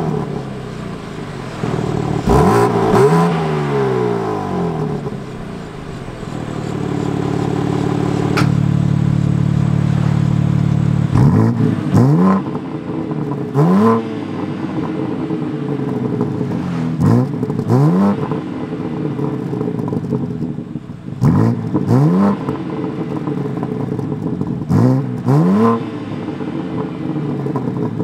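BMW M4 Competition's S58 twin-turbo inline-six free-revved at a standstill, heard at the quad exhaust tips. In comfort mode it goes through a few rises and falls, then holds a steady higher rev for a few seconds. Then, in Sport+ mode, come about nine short, sharp blips.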